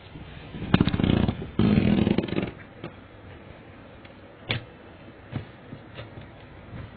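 Laptop box packaging being handled: two harsh, rasping noises of about a second each, one straight after the other, then a few light clicks and knocks.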